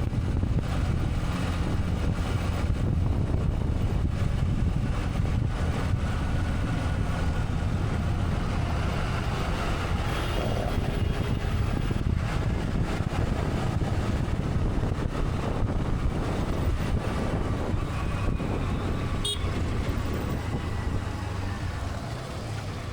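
Road noise from a moving motorcycle: a steady low rumble of wind and engine, with passing traffic and a vehicle horn sounding briefly.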